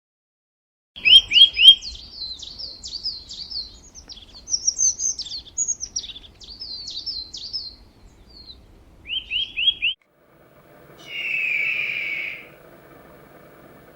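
A songbird calling and singing: quick series of sharp, downward-slurred chirps and whistled notes for about nine seconds, starting a second in and ending with four rapid chirps. After a break, a single harsh call about a second and a half long sounds over a low steady hum.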